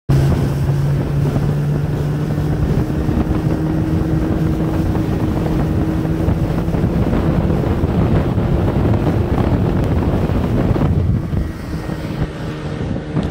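Evinrude 40 H.O. two-stroke outboard motor running with the boat under way, a steady engine hum under water rush and wind buffeting the microphone. The rushing noise eases about eleven seconds in.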